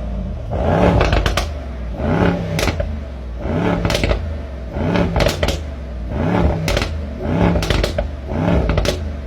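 Car engine running with a steady low hum, and a regular pulsing about twice a second over it.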